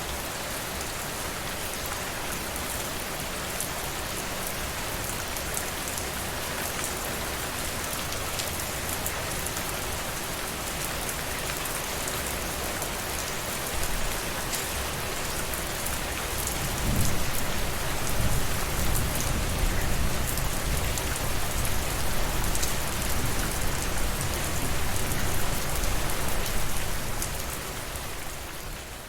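Steady rainfall: a dense hiss of falling drops with fine pattering. About halfway through, a deep low rumble swells in under the rain and stays, then eases near the end.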